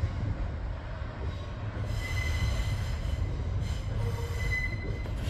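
A passenger train moving at a station, rumbling low and steady. From about two seconds in comes a high-pitched metallic squeal that lasts about three seconds, with a short break in the middle.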